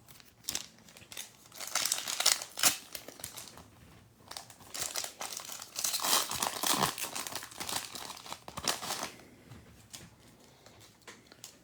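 Plastic trading-card pack wrapper being torn open and crinkled by hand, in irregular crackly bursts that die away near the end.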